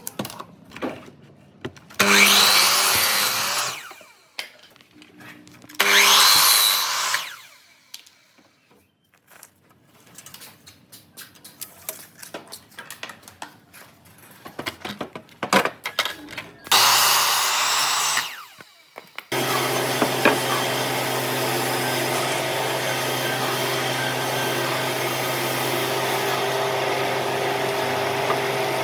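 Power tool cutting wood in three short bursts, with scattered knocks from handling between them. About two-thirds of the way through, a motor starts running steadily.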